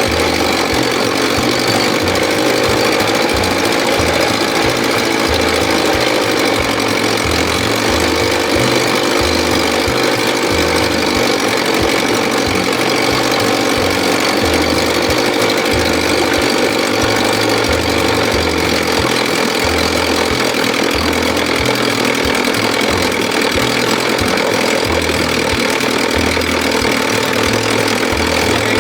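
1957 Sea King 5 hp two-stroke outboard motor running steadily, with an uneven low pulsing underneath. The owner judges that its high-speed mixture still needs dialing in.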